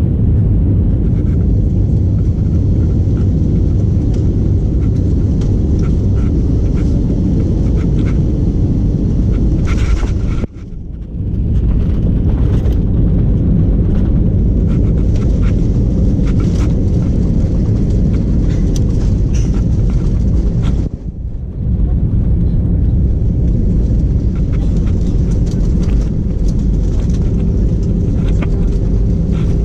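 Steady loud rumble of an Airbus A320-232 heard from inside the cabin while on the ground after landing, with engine and airframe noise that dips briefly twice, about ten and twenty-one seconds in.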